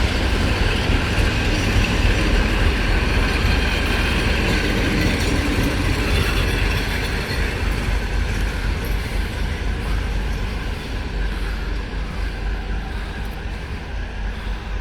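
Train rolling past on the rails, a steady deep rumble with wheel and rail noise that slowly fades as it moves away.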